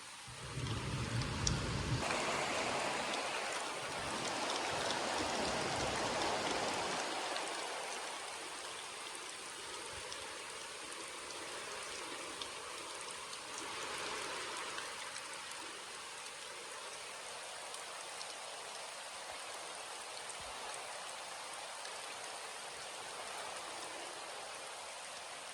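Steady rain falling, heavier for the first several seconds and then settling, with a deep low sound in the first two seconds.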